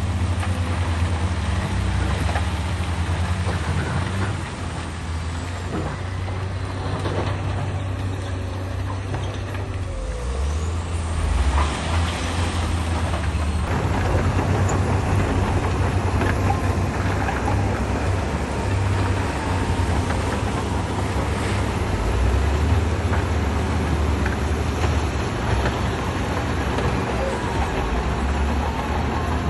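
Heavy diesel earthmoving machinery running and working, a continuous low engine drone whose pitch and level shift as the machines move, growing louder about a third of the way through.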